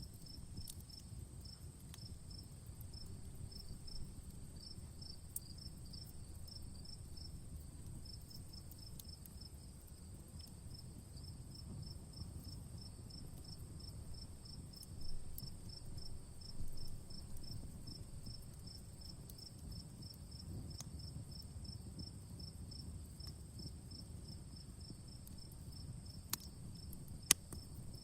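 Outdoor wood fire with a low steady rumble and a few sharp pops, the loudest near the end, under insects chirping in a rapid, even pulse.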